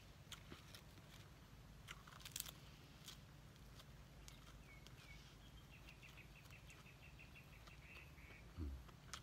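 Near-silent outdoor quiet with a faint bird calling: two short chirps about halfway through, then a quick trill of repeated notes for a couple of seconds. Scattered faint clicks throughout and a low thump near the end.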